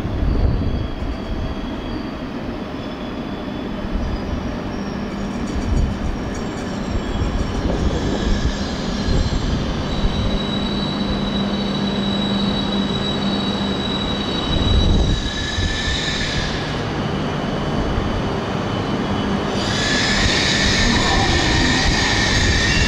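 E5 series Shinkansen train moving slowly along a station platform: a steady electric whine and wheel-on-rail rumble, with a brighter hissing wheel squeal rising near the end.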